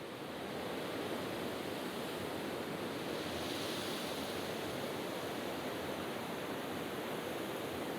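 Recorded nature sound of steady rushing water, like surf, an even hiss with no rhythm or pitch.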